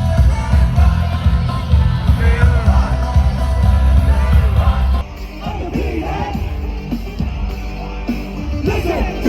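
Live K-pop concert music over a stadium sound system, recorded from the crowd: heavy bass beat with singing. About halfway through it changes abruptly to a quieter passage with less bass, singing voices and crowd yells.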